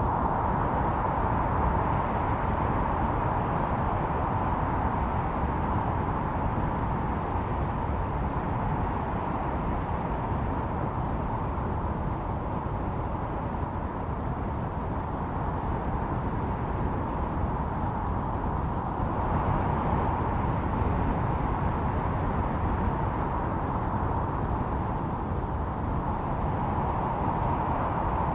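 Snowstorm wind howling: a steady rush with a hollow howl that swells and eases in slow gusts, strongest about two-thirds of the way through.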